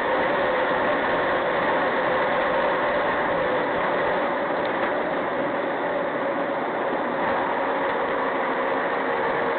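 Steady car engine and road noise with a constant hum, level throughout.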